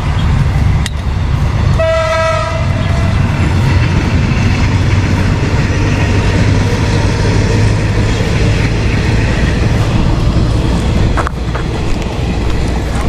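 A horn sounds once, about two seconds in, for a second or so, over a loud, steady low rumble.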